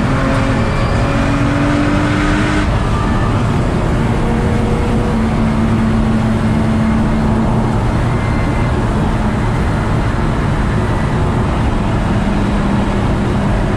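Nissan GT-R R35's twin-turbo V6 running with road and tyre noise, heard from inside the cabin. The engine note climbs slightly, drops about three seconds in, then holds fairly steady.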